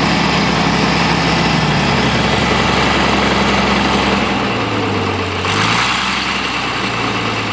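International 856 tractor's diesel engine running just after a hard cold start, then dropping to a lower speed about four to five seconds in as it settles toward idle.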